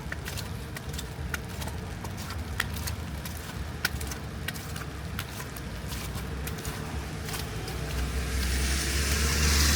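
City street traffic: a steady low rumble of engines, with a car approaching whose tyre hiss swells over the last two seconds. Sharp ticks about every half second run through it.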